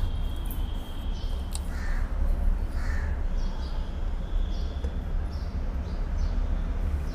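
A bird calls twice in the background, about a second apart, over a steady low hum.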